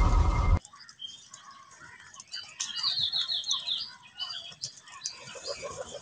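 A loud intro music and impact sound cuts off sharply about half a second in. After it come scattered bird chirps, with a quick run of high, falling chirps about three seconds in.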